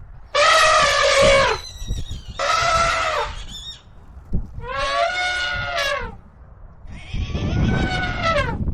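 An animal calling four times in a row, each call a drawn-out cry of about a second with a pitch that drops at the end.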